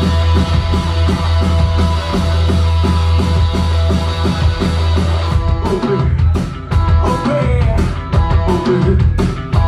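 Live rock band playing an instrumental passage, recorded from the crowd: electric guitar and bass over a heavy low end, with a fast even pulse for about five seconds, then looser drum hits.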